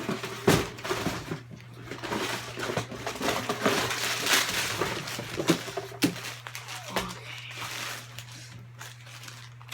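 Cereal packaging being handled and opened: a plastic bag crinkling and crackling in a run of rustles, with a sharp knock near the start.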